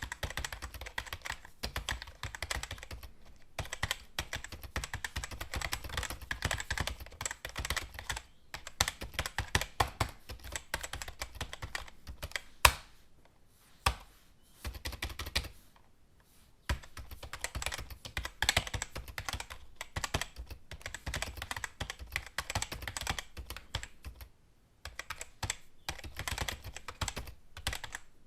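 Computer keyboard typing: quick runs of key clicks broken by short pauses, with one louder key strike about halfway through.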